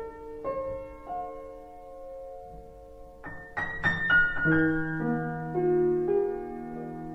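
Background piano music: slow, sustained notes and chords, growing fuller about halfway through.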